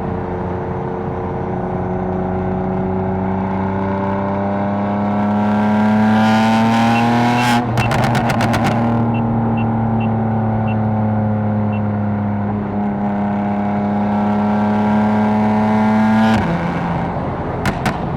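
Catless BMW M4's twin-turbo inline-six exhaust pulling under load, its note slowly rising in pitch. A quick run of sharp crackles cuts in about halfway through. The engine pulls again, then drops sharply in pitch near the end, followed by two more pops.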